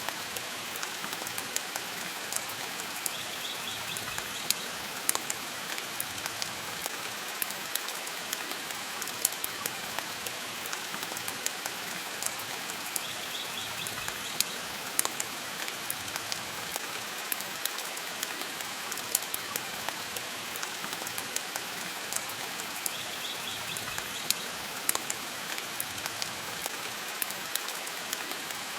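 Steady rain hiss with frequent sharp clicks and pops throughout, blended with the crackle of a wood fire burning in a stone fireplace.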